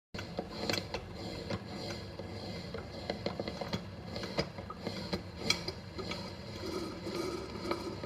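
Drip coffee maker brewing: a steady hiss with many irregular small clicks and pops, starting suddenly.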